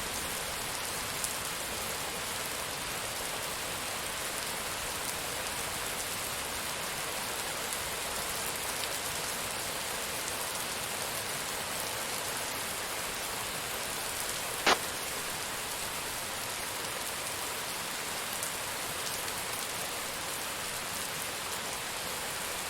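Steady rain falling and pattering on surfaces, an even hiss of drops. A single sharp tick stands out about two-thirds of the way through.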